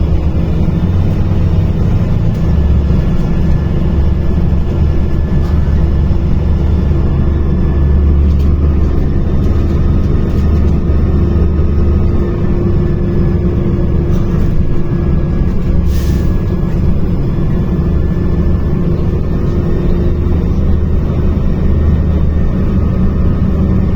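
Inside a moving MAZ-105 articulated city bus: steady diesel engine and road rumble with a faint steady whine. A short hiss of air comes about two-thirds of the way through.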